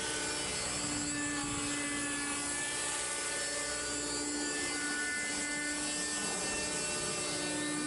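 Raptor 30 RC model helicopter in a Hughes MD 500 scale body in flight: its small nitro engine and rotors give a steady, high-pitched whine and hum throughout.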